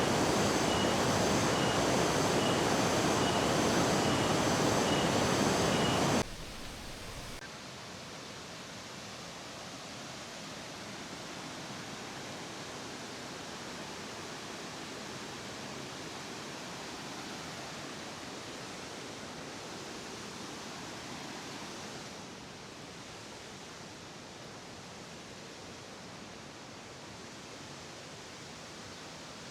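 Steady rushing roar of a large waterfall, loud for about the first six seconds, then cutting suddenly to a much softer, steady water rush.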